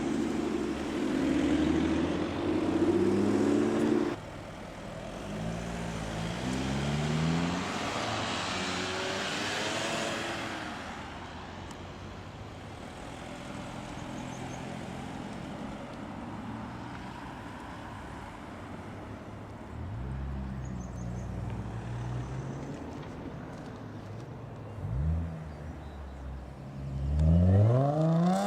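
Audi cars driving off one after another, their engines revving and rising in pitch as each accelerates away. A steady engine hum cuts off abruptly about four seconds in, and a hard rev climbs sharply near the end.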